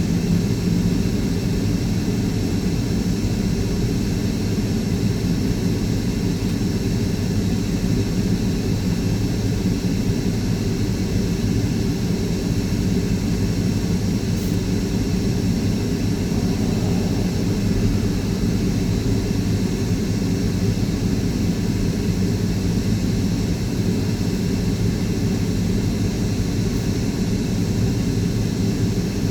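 Steady engine drone of a vehicle, unchanging throughout.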